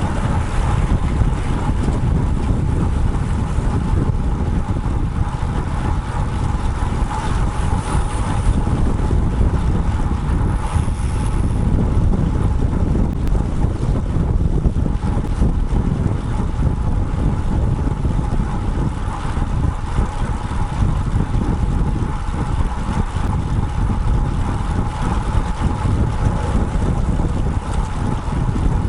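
Wind buffeting the microphone of a bike-mounted action camera while riding a road bike, a steady low rumble with a faint steady tone underneath.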